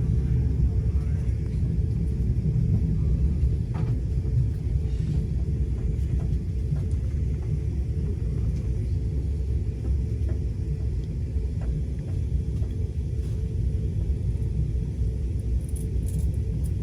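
Steady low rumble of an Amtrak passenger train running along the track, heard from inside a coach, with faint clicks now and then.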